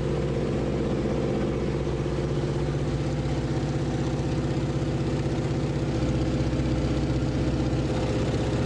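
A piston engine running at a steady, unchanging speed, with a fast even pulse.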